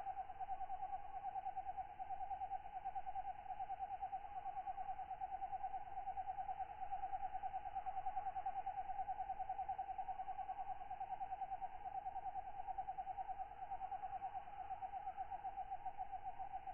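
Katydid trilling at night: one steady, rapidly pulsing buzz on a single pitch that runs unbroken, with a fainter higher overtone.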